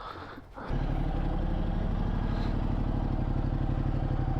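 Motorcycle engine running at a steady idle, coming in abruptly under a second in, with rapid even firing pulses and no revving.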